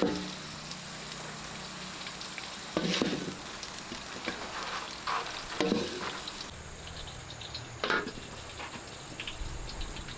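Food frying in a hot pan: a steady sizzle, with a utensil stirring, knocking against the pan three times and making smaller clicks in between.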